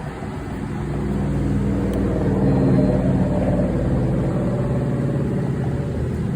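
A motor running with a steady hum that swells about a second in and then holds.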